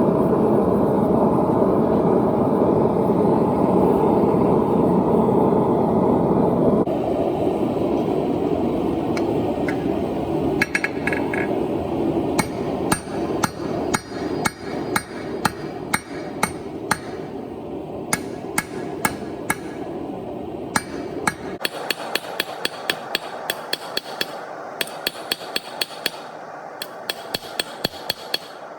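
A steady rushing noise, the forge running, then a hand hammer striking hot steel on an anvil, at about two blows a second with a bright ringing clink on each strike, while a kukri blade is forged from a thick bar of steel.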